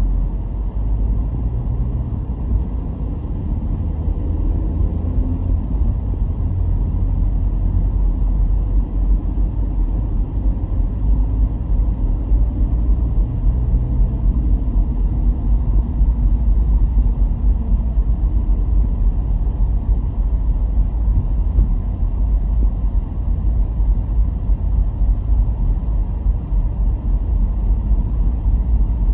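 Car driving along a road: a steady low rumble of engine and tyre noise. In the first half the engine note rises and falls a few times as the car speeds up and slows.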